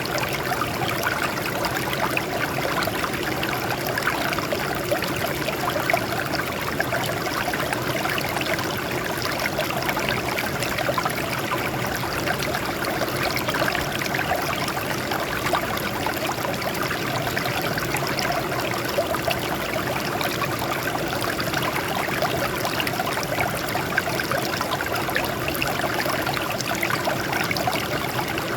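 Water running steadily over and off rocks, a continuous splashing and trickling with no pauses or changes.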